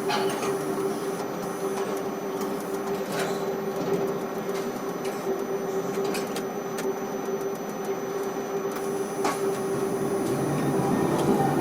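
Ship-to-shore crane machinery running with a steady hum and a few faint clicks, getting a little louder near the end.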